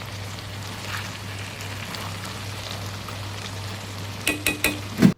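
Chicken curry cooking in a pot on the gas, a steady sizzling hiss, with a few sharp knocks near the end.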